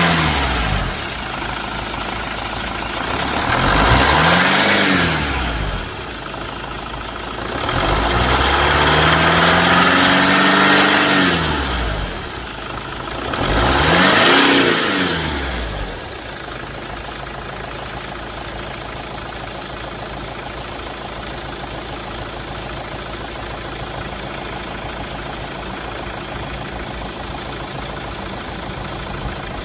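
TX4 London taxi's VM Motori 2.5-litre 16-valve common-rail four-cylinder diesel, revved up and back down several times, once held high for a few seconds. It then settles to a steady idle about halfway through.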